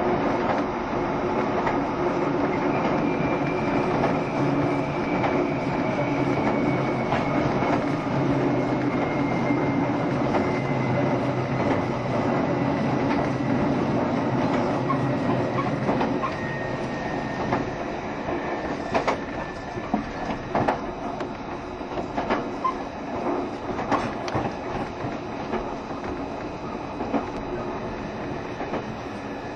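JR Shikoku 7200 series electric multiple unit running on the line, a steady drone with a faint whine that slowly falls in pitch. About halfway through the drone eases off and the wheels click over rail joints, one sharp click at a time.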